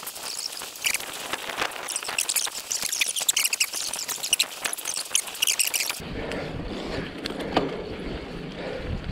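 Birds chirping and singing, many short high calls, for about six seconds; then the sound switches suddenly to a lower rushing noise.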